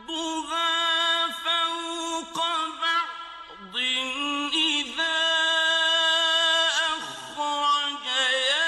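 A single voice chanting Arabic Quran recitation (tilawa) in a melodic style, holding long ornamented notes with brief pauses between phrases.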